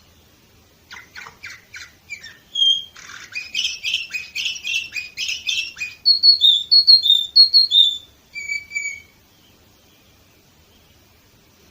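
Domestic canary singing one song. It starts with a short run of quick notes, goes into a fast, loud trill, then repeats two-note whistles, and ends with two softer notes about nine seconds in.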